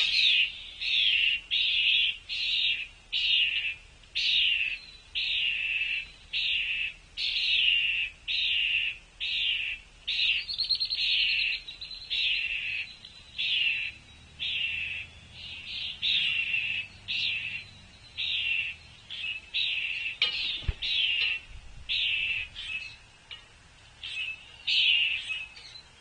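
A bird calling over and over, one short down-slurred note about every two-thirds of a second, with a brief fast high trill from another bird about ten seconds in. A single dull knock sounds about twenty seconds in.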